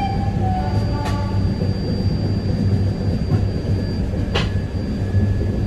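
Passenger train coach running along the track, heard at an open door: a steady low rumble of wheels on rails, with sharp clicks about a second in and again past four seconds. A horn note trails off within the first second.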